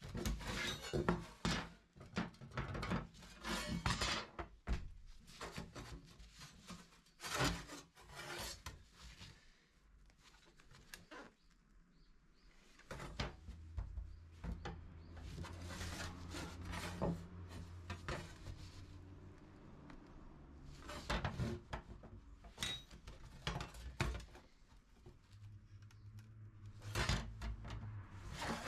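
Irregular knocks, clicks and scraping of hard objects being handled, with a low steady hum in the middle stretch and again near the end.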